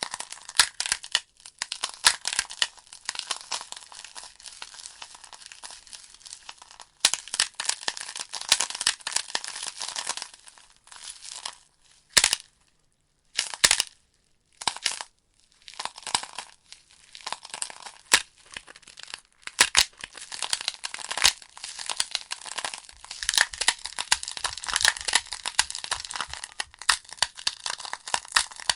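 Firewood logs burning in a fireplace, crackling with a dense run of sharp snaps over a soft hiss. The crackling breaks off into near silence twice, briefly, about halfway through.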